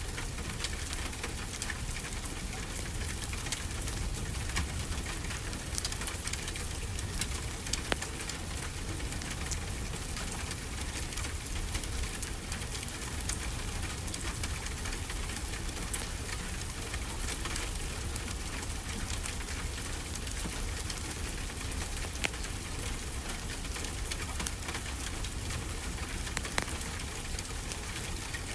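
Steady rainfall with frequent small sharp clicks and pops scattered through it, the crackling of a wood fire.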